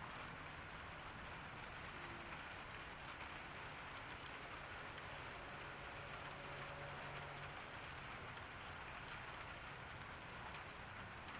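Steady summer rain falling on a garden, a constant even patter with faint scattered drop ticks.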